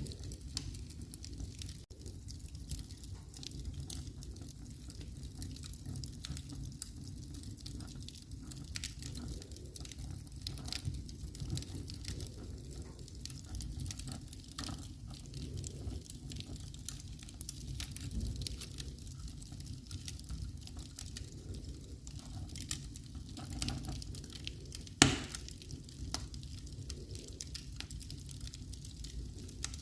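Wood fire crackling in a fireplace: scattered small snaps over a low steady rumble, with one sharp, much louder pop about 25 seconds in.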